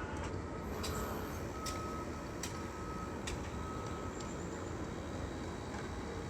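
Vehicle backup alarm beeping at one steady pitch, about one beep a second, stopping about four seconds in, over a steady low rumble of engines and traffic. A few sharp clicks sound among the beeps.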